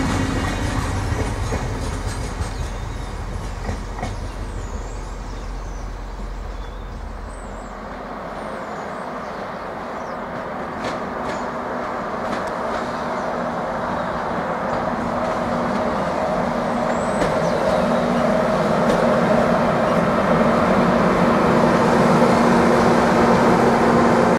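Passenger train at a station: a deep rumble fades over the first eight seconds or so. Then train noise with a steady humming note builds, growing louder toward the end.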